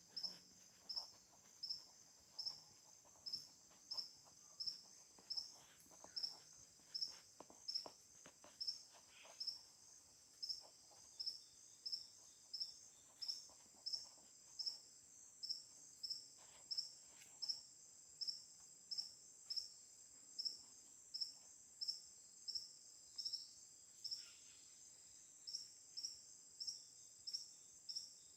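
Insects chirping at night: one gives a regular high chirp about three times every two seconds over a continuous higher buzz from others, with a few faint rustles.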